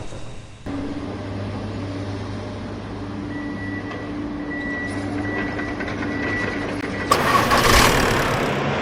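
A steady motor drone that starts under a second in and then runs evenly, growing louder and noisier for a moment near the end.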